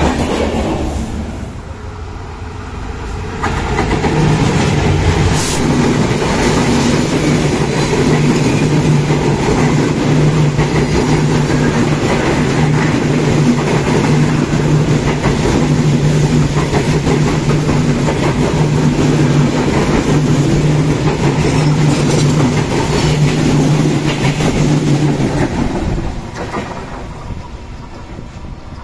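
Bangladesh Railway express train coaches rolling past close by, wheels clattering on the rails over a steady low hum. The sound falls away near the end.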